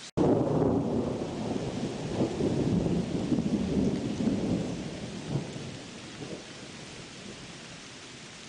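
Thunder over steady rain. The peal breaks in suddenly just after a split-second gap, rolls on with crackling peaks for about five seconds, then fades away, leaving the rain's steady hiss.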